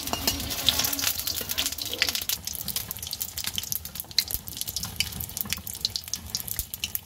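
Batter-coated pumpkin flowers sizzling and crackling in hot oil in an iron karahi, a steady dense crackle throughout.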